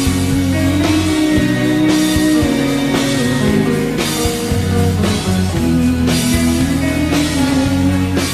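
Instrumental break of a rock song: a sustained, sliding lead melody over bass and a drum kit keeping a steady beat.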